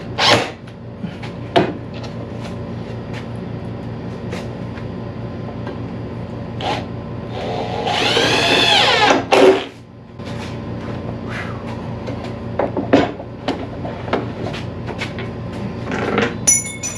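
Power tool motor running steadily, with scattered knocks and clicks of work on the wood. About halfway through, a motor runs louder and its pitch rises and falls back.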